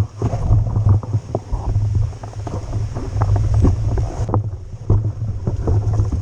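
Wind buffeting on the helmet or bike camera's microphone as an e-mountain bike rides over rough ground, with frequent knocks and rattles from the bike. A high hiss runs over it and drops away a little after four seconds in.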